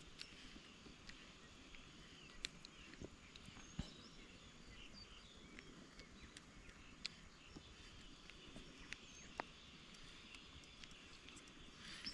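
Near silence: faint outdoor ambience with a soft hiss, a few faint bird chirps and scattered light ticks.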